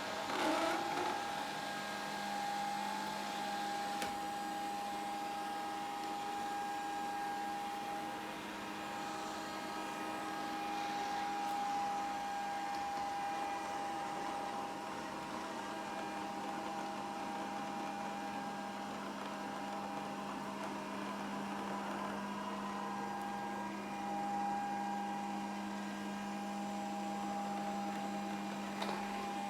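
Grundig VCR 2131 robot vacuum cleaner running steadily: an even suction noise with a steady low hum and a higher steady tone from its motors.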